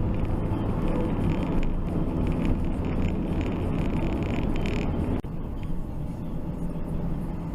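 Car driving, a steady engine and road-noise rumble picked up by a dashcam microphone, with an abrupt change in the noise about five seconds in.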